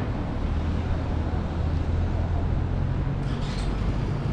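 Street ambience with a steady low engine rumble from a vehicle close by, joined by a few faint brief high-pitched sounds near the end.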